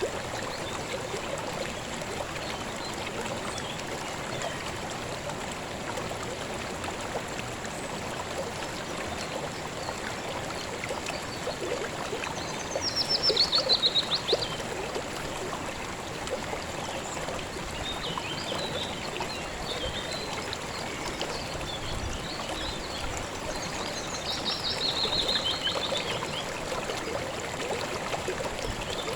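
Shallow stream flowing and trickling steadily. Twice, about halfway through and again near the end, a high rapid trill falling in pitch rises above the water.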